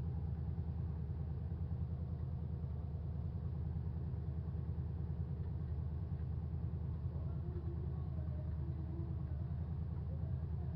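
Demolition derby trucks' engines running, a steady low rumble with a fast pulse to it.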